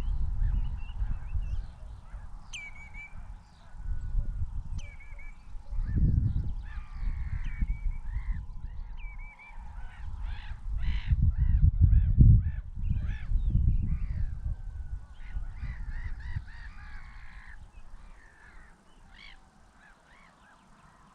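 Birds calling over and over, many short high calls, some dropping sharply in pitch, over a loud low rumble that swells and fades in gusts. Calls and rumble thin out in the last few seconds.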